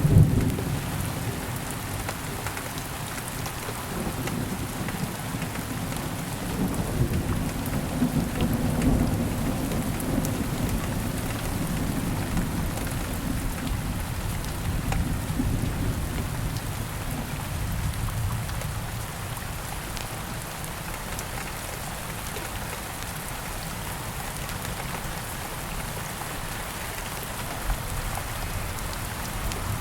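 Steady rain falling, with low rolling thunder that is loudest at the very start and fades, and weaker rumbles swelling again about a quarter and about half of the way through.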